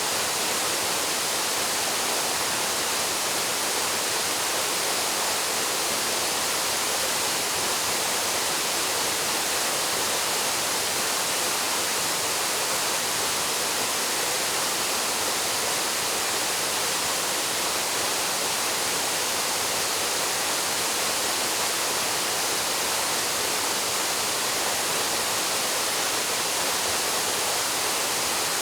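Paraeso waterfall pouring into its pool: a steady, even rush of falling water with no change.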